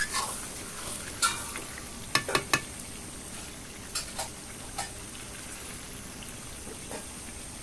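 Chicken chilli sizzling in a kadai while a ladle stirs it. The ladle knocks and scrapes against the pan several times in the first five seconds and once more near the end, over steady sizzling.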